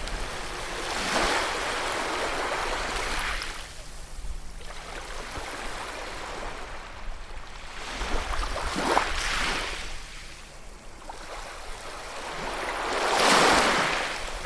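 Sea waves breaking and washing up the shore, three surges in turn with quieter lulls between, the last one, near the end, the loudest.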